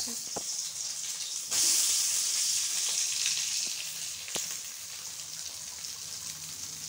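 Damp soya chunks sizzling in hot oil in an aluminium kadhai. About a second and a half in, the sizzle jumps suddenly louder as more wet chunks hit the oil, then slowly dies back to a steady fry, with a few light clicks.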